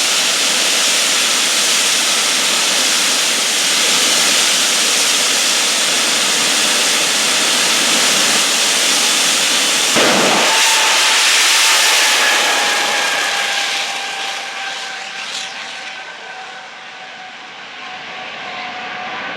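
Jet dragster's turbine engine running with a loud roar and hiss. About halfway through there is a sudden burst, then a whistling whine that falls slowly in pitch as the sound fades.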